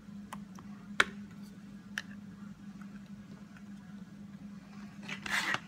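Light clicks and taps as a rubber stamp is inked on an ink pad and pressed onto cardstock, the sharpest about a second in, over a steady low hum. A short rushing noise comes near the end.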